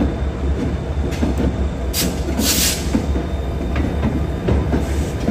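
Wheeling & Lake Erie train rolling along the rails: a steady low rumble with wheel clatter, and two brief high hissing noises about two seconds in.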